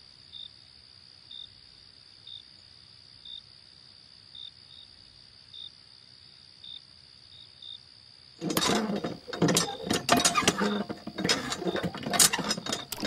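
Faint high chirping about once a second, then, from about eight seconds in, loud irregular clicking and clattering as the lever of a miniature hand water pump is worked.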